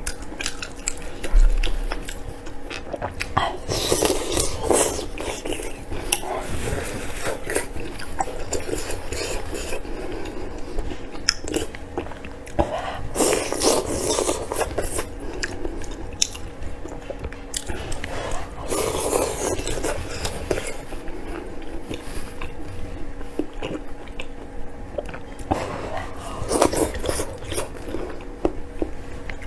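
Close-up eating sounds: biting and chewing meat, with wet clicks and louder crunchy clusters every few seconds.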